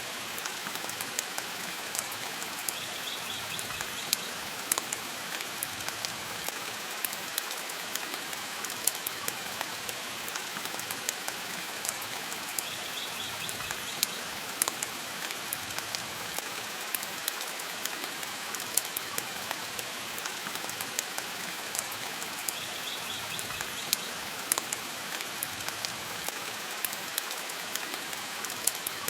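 Steady rain with frequent sharp clicks and pops of a crackling wood fire scattered through it.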